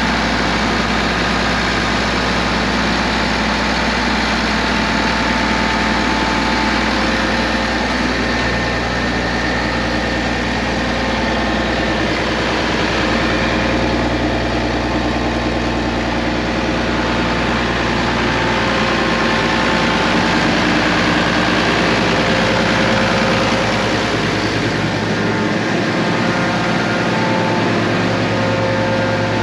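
Case IH Axial-Flow combine's diesel engine idling steadily, running smooth 'like a kitten' as it is warmed up in winter.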